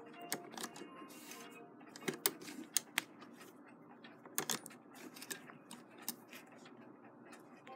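Sharp, irregular metallic clicks and clacks from the shuttle, carrier and slide plate of a vintage Singer vibrating-shuttle sewing machine being handled, loudest about two to three seconds in and again about four and a half seconds in.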